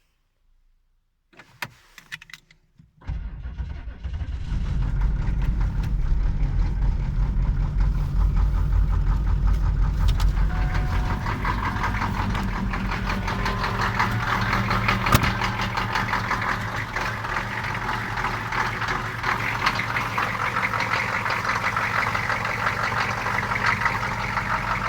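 Detroit Diesel 6.2 V8 diesel cold-starting after glow-plug preheating in hard frost: a brief crank, then it catches about three seconds in and settles into a steady idle with a rapid diesel knock.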